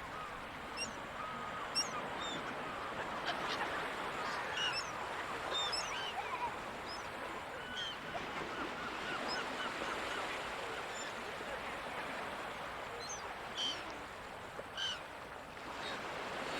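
Gulls calling: many short, overlapping cries, some bending up or down in pitch, over a steady wash of ocean surf.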